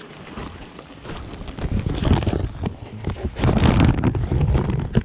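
Wind buffeting the microphone: an uneven rumble that swells and drops, with scattered short knocks of handling or footsteps.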